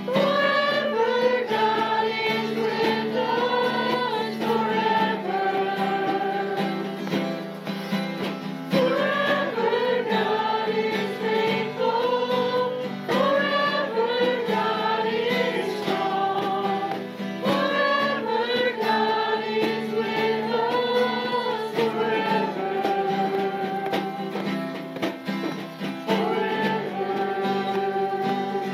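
A group of voices singing a praise song together, with instrumental accompaniment holding steady chords underneath the melody.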